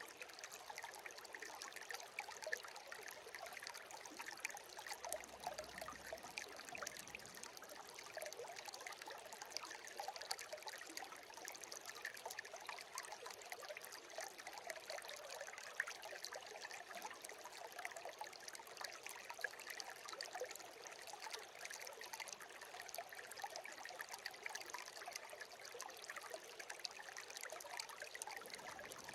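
A small stream trickling and babbling steadily, with many small splashes.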